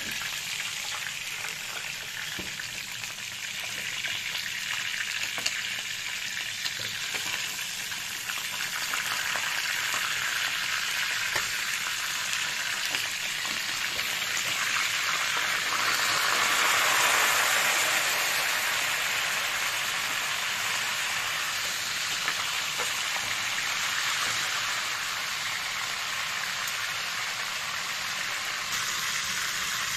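Whole chicken frying in hot oil in a pan: a steady sizzle that swells louder around the middle and then settles. Light clicks of a metal ladle and knife against the pan come through it now and then.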